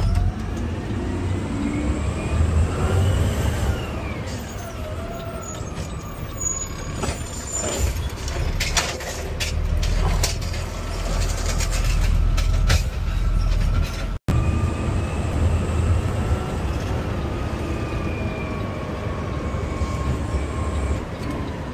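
Garbage truck's diesel engine and driveline running as it drives between stops, with a low rumble and a whine that rises and then falls in pitch. A run of knocks and rattles comes about a third of the way through, and there is air-brake noise.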